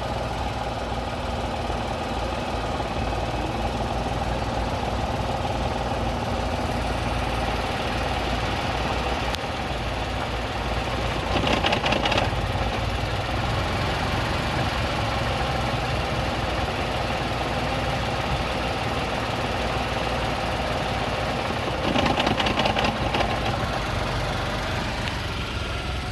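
Tata Tigor engine idling roughly and misfiring, the car shaking with vibration. Twice it briefly gets louder with a quick run of knocks.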